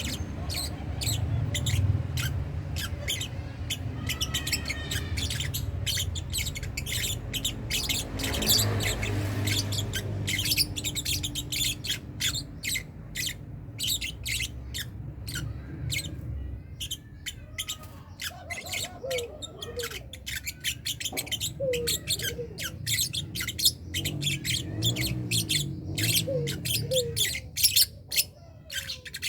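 A colony of lovebirds chirping and squeaking in rapid, high-pitched calls, with a low rumble underneath during the first half.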